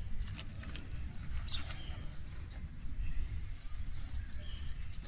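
Short bird chirps, about three of them, over a steady low wind rumble on the microphone, with light rustling and ticking of dry leaves and sticks being handled.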